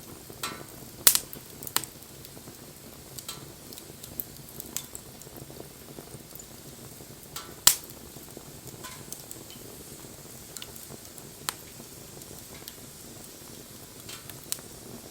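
Wood fire crackling: a steady low hiss of burning with scattered sharp pops and snaps. The two loudest pops come about a second in and about halfway through.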